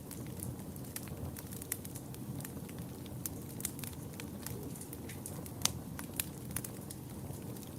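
Wood fire burning with a steady low rumble and irregular sharp crackles and pops, the loudest pop about five and a half seconds in.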